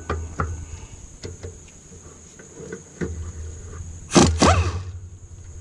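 Hand tool working a rocker arm assembly bolt loose on a Dodge 3.5L V6 cylinder head: scattered light clicks and knocks, with a loud scraping squeak about four seconds in.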